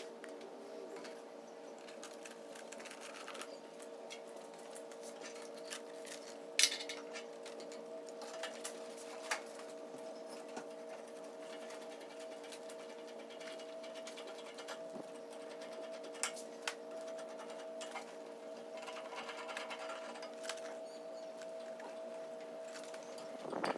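A small motor running with a steady hum, and a few scattered light clicks and taps over it.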